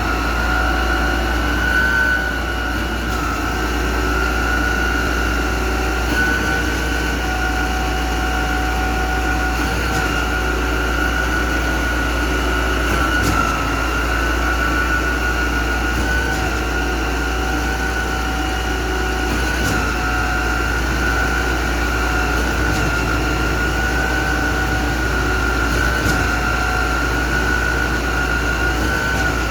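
Construction machinery running steadily: a constant high whine over a deep rumble, with no change in speed.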